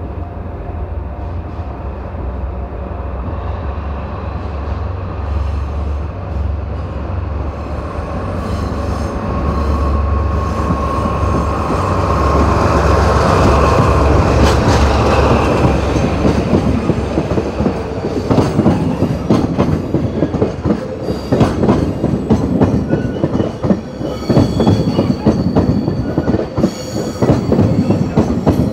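DD51 diesel-hydraulic locomotive hauling a freight train, pulling away under power: a low engine drone with a steady whine builds to its loudest as the locomotive passes about halfway through. Then the freight wagons follow, their wheels clattering rapidly over the rail joints.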